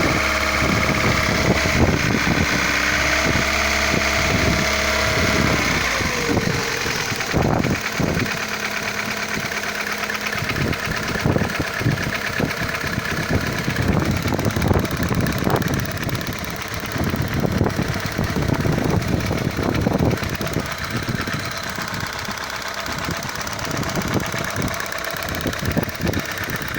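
Opel C16SE 1.6-litre four-cylinder petrol engine running with a knocking from the cylinder head whose cause the owner cannot pin down. A steady tone fades about six seconds in, leaving irregular knocking over the engine's running.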